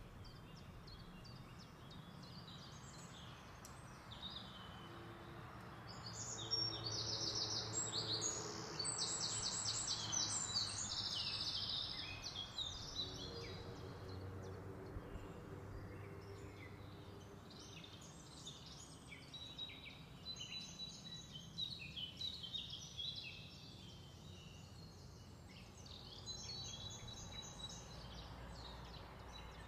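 A small songbird chirping and singing in quick trills of high notes. The song is loudest in a long burst a few seconds in, then comes back in scattered phrases later, over a faint steady low hum.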